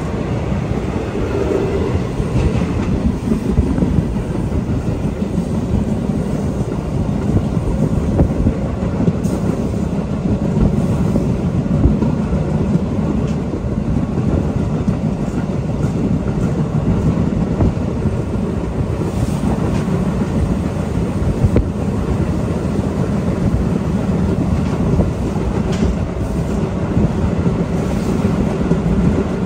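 Passenger train running along the track, heard from inside the coach: a steady rumble of wheels on the rails with a few faint clicks.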